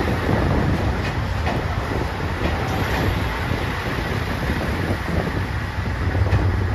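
JR Shikoku 2700 series diesel limited express train pulling slowly into the platform as it arrives: a steady low rumble of its engines and wheels on the rails, with a few faint clicks. The rumble grows slightly near the end.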